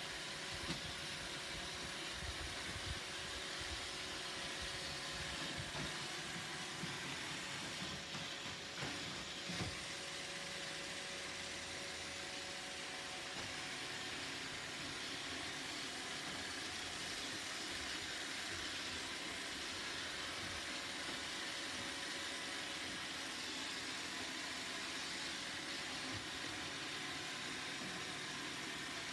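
Roomba robot vacuum running: a steady motor whir with a few faint knocks.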